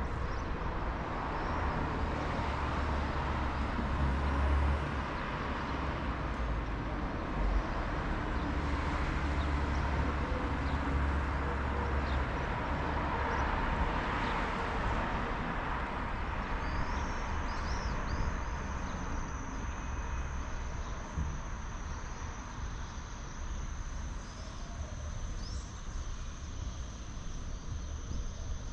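Outdoor ambience: a broad rushing noise with a low rumble swells to a peak about halfway through, then eases off. A little past halfway a steady high-pitched insect drone sets in, with short faint chirps over it.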